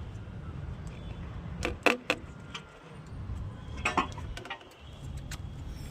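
Metal parts and tools being handled during a solar water heater installation: a few sharp clinks and knocks, one cluster about two seconds in and another about four seconds in, over a steady low rumble.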